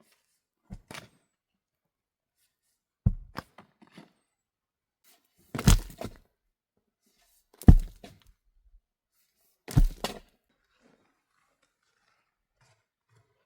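A series of heavy thunks, one about every two seconds and getting louder, each followed by a lighter knock or two: something solid being struck or dropped during shelter-building work.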